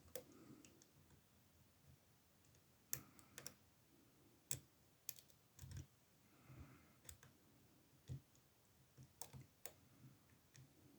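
Faint, irregular light clicks of lock picks working inside the keyway of an older Ruko oval cylinder padlock, about a dozen scattered ticks.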